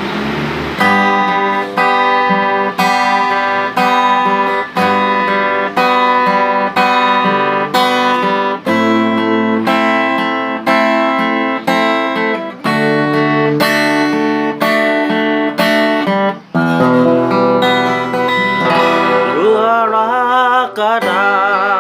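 Acoustic guitar playing a song's intro, chords struck about once a second. From about 19 seconds in, a wavering melody line joins over the chords.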